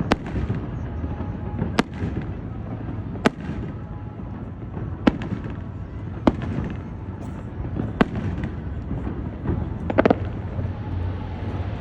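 Aerial fireworks shells bursting, one sharp bang every second or two, with a quick run of several bangs about ten seconds in, over a steady low rumble.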